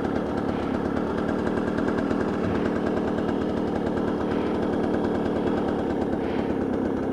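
Truck engine idling steadily, a fast even low pulsing.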